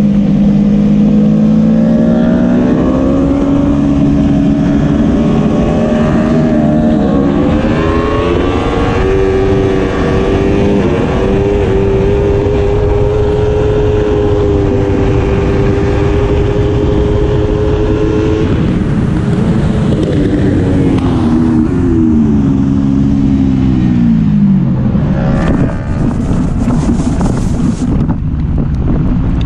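Onboard sound of a four-cylinder racing superbike engine accelerating hard up through the gears, each upshift a short step in pitch, then holding a steady high-revving note. It then falls in pitch through a series of downshifts as the bike slows. Near the end the engine fades under loud rushing wind noise.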